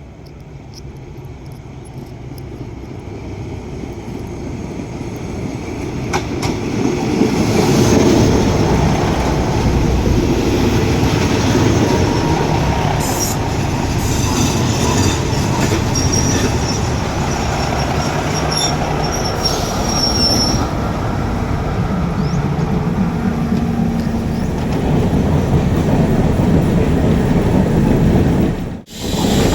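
Train approaching and running in close by, growing louder over the first eight seconds, then a steady loud rumble of wheels on the rails. Thin high wheel squeals come in around the middle. The sound drops out abruptly for a moment near the end.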